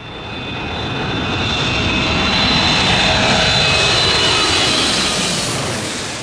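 Jet airliner's engines passing by: a rush of noise with a high whine that swells to a peak about midway, then fades as the whine drops slightly in pitch.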